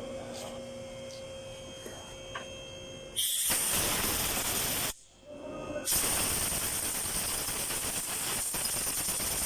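Aerosol electrical contact cleaner being sprayed in two long hissing bursts with a one-second pause between them, starting about three seconds in.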